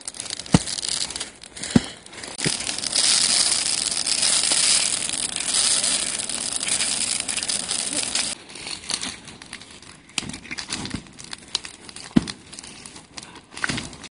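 Dense crackling of burning or burnt forest undergrowth, with a loud hiss through the middle that cuts off abruptly about eight seconds in, then scattered crackles and snaps.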